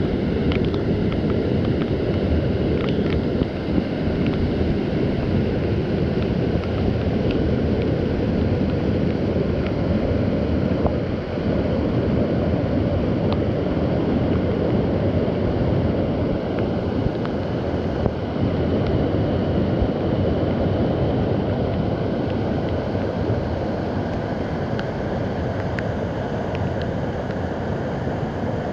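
Waterfall rushing steadily, its flow swollen by heavy rain.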